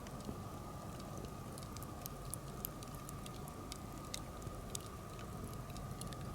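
Birch-wood campfire crackling, with small sharp pops scattered irregularly throughout.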